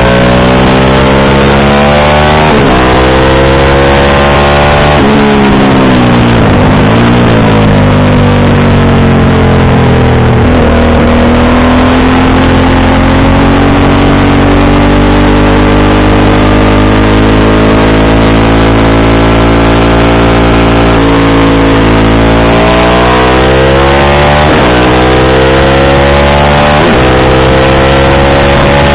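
Motorcycle engine and exhaust running under way. The revs climb and break through gear changes in the first few seconds, dip and hold steady for about ten seconds, then climb again through two upshifts near the end.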